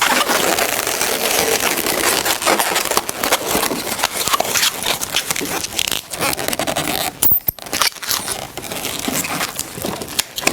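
Latex twisting balloons rubbing and crackling against each other as they are handled and twisted, with a brief high squeak about seven seconds in.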